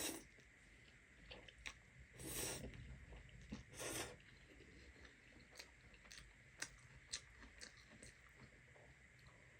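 A person eating close to the microphone: a few short, louder mouth sounds in the first four seconds, then soft chewing with small wet clicks.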